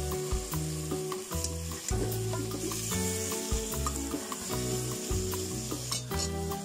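Chicken pieces sizzling as they fry in butter in a metal pot, with a metal spoon stirring them and clicking and scraping against the pot. Background music with a bass line plays underneath.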